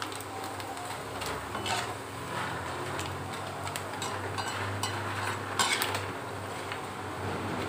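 Dried potato chips frying in hot oil in a kadhai, sizzling, while a perforated metal slotted spoon stirs and lifts them, scraping and clinking against the pan a few times.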